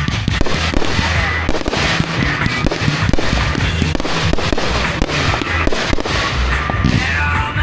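Fireworks going off in rapid succession, a dense run of bangs and crackling, with music playing underneath.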